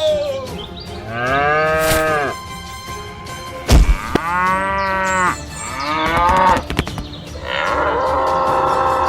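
Cow mooing: four long calls, each rising then falling in pitch, with a sharp thump about four seconds in.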